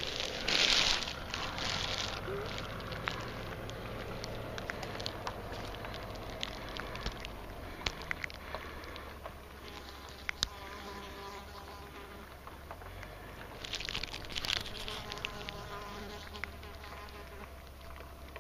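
An insect buzzing close by, its hum coming and going, with scattered small clicks and rustles.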